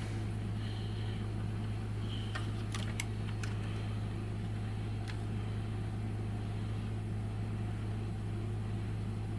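Steady low hum of an idling vehicle engine heard from inside the cabin, with a few light clicks around two to three seconds in and once more about five seconds in.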